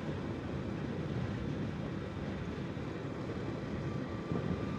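Riding noise from an Energica Experia electric motorcycle on a gravel road: a steady rush of wind and tyre rumble, with a faint steady high whine.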